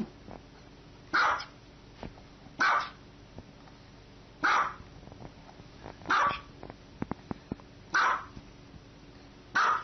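A small dog barking: six single barks, spaced about one and a half seconds apart.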